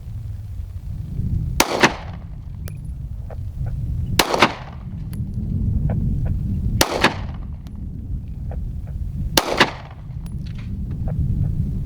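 Four single shots from a Glock 19X 9mm pistol, evenly spaced about two and a half seconds apart, over a steady low rumble.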